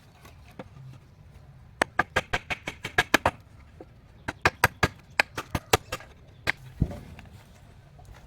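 Two quick runs of sharp knocks, about eight a second, each run lasting a second and a half, with a couple of single knocks after them.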